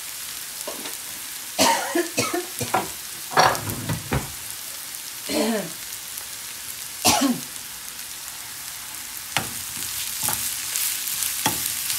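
Onions and spices sizzling steadily in a granite-coated frying pan, with a few brief voice sounds in the first half. Near the end a steel spoon starts stirring and scraping the pan, and the sizzle grows louder.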